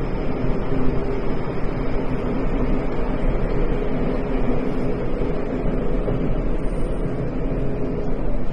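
Tokyo Metro 10000 series subway train running at a steady speed between stations: an even rumble of wheels on rail, with a faint steady tone that fades about seven seconds in.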